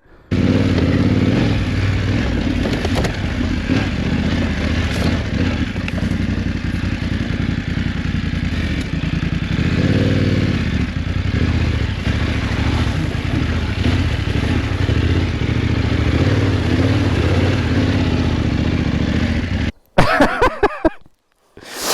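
BMW R 1300 GS Adventure's boxer-twin engine running while the bike is ridden along a trail, with one brief rise and fall in revs about ten seconds in. The engine sound cuts off abruptly near the end.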